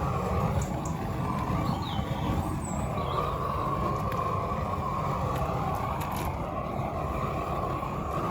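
Gas flame-thrower torch burning steadily as it is played over a faded plastic bumper to heat the plastic back to colour. The noise is a steady rushing with a deep rumble.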